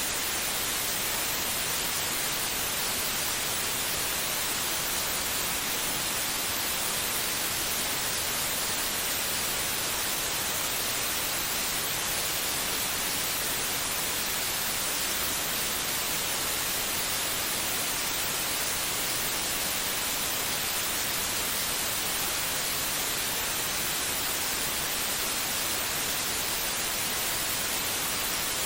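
Steady white noise: an even hiss, strongest in the high range, with no pulses or changes, played as a sleep sound to soothe a baby.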